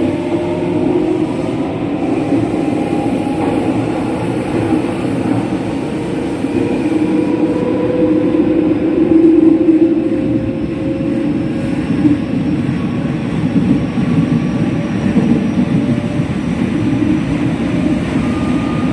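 JR West 207 series electric train running at speed, heard from inside the car: steady rumble of wheels on rail with the whine of its original, unreplaced traction motors as several tones drifting slowly in pitch.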